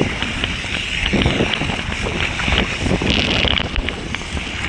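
Water rushing and splashing around a raft tube sliding down a waterslide, with wind buffeting the microphone.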